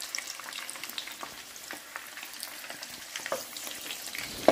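Batter-coated shrimp deep-frying in hot oil in a frying pan: a steady sizzle with many small crackling pops. A single sharp click comes at the very end.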